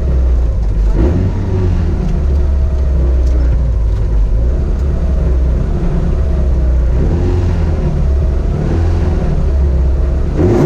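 Rally car engine idling while stationary, heard from inside the cabin, with the revs rising and falling about a second in and again near the end.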